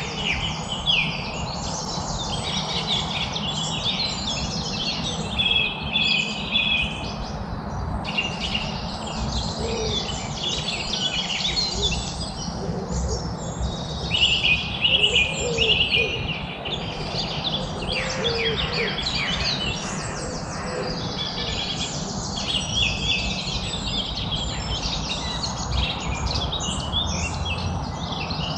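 A chorus of several songbirds chirping and trilling at once, dense rapid calls overlapping without pause, over a steady low background rumble.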